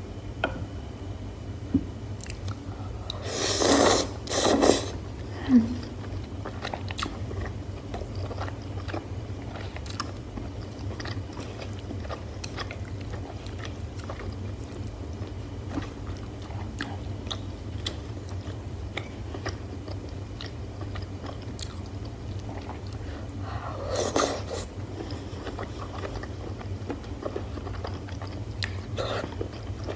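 Close-miked chewing of hotpot beef slices and mushrooms, with small wet mouth clicks throughout. A few louder bites or slurps stand out, two a few seconds in and one more later, over a steady low hum.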